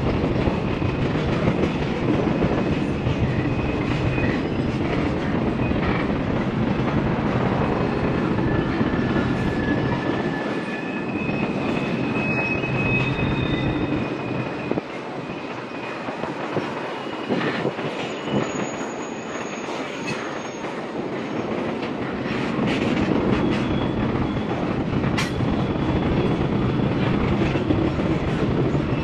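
Norfolk Southern freight train's cars rolling past, with brief high-pitched wheel squeals now and then. The noise eases somewhat in the middle and builds again.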